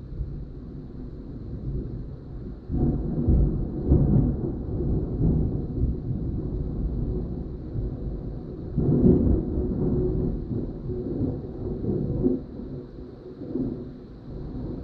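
Thunder from nearby lightning, rumbling. Sudden cracks come about three and four seconds in and another loud peal about nine seconds in, with rolling rumble between and after.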